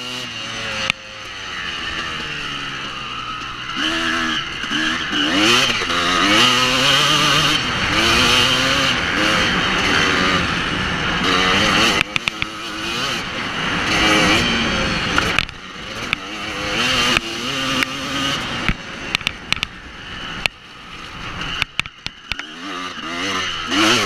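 Honda CR250 single-cylinder two-stroke dirt bike engine revving hard, its pitch climbing and dropping back over and over through the throttle and gear changes, with a steady rush of wind on the microphone. Near the end the engine falls off with a few short gaps before climbing again.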